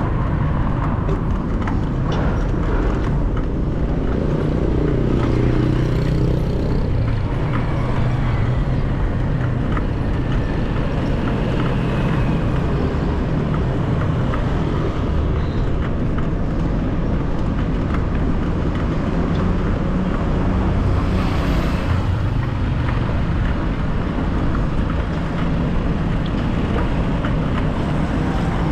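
City street traffic: car and motorcycle engines running close by and passing, over a steady rumble of road noise.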